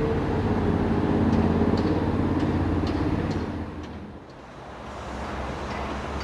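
Heavy low vehicle rumble with a steady hum, fading about four seconds in, then building again with scattered sharp clicks as a train draws near.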